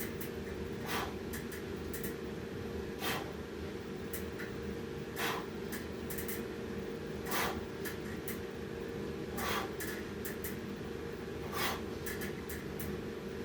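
A man breathing hard through a set of dips, one sharp exhale about every two seconds in time with the reps, over a steady low hum.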